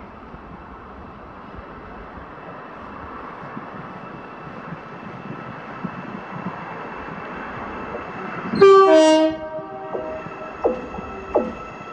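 Class 88 locomotive hauling a container freight train, its rumble building as it approaches, then sounding a two-tone horn for about a second, a higher note followed by a lower one. After the horn, a steady whine and sharp clacks as its wheels pass over rail joints.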